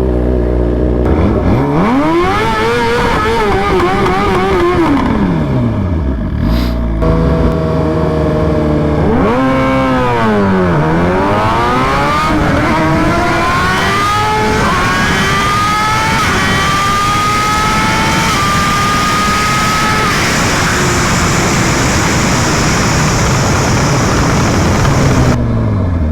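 Drag-racing motorcycle engine revved up and down while staging, then launched: its note climbs through about five quick upshifts before giving way to a steady rushing noise at speed, and it winds down near the end.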